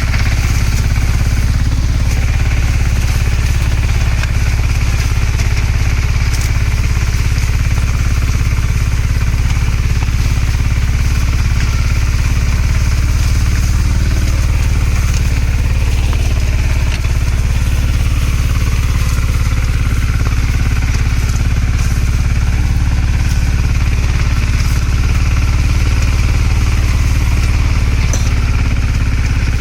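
Apollo mini tractor's Greaves engine running at a steady, even speed as the tractor works in the sugarcane rows.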